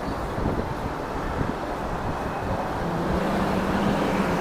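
Street traffic noise with wind on the microphone; a low steady hum comes in about three seconds in.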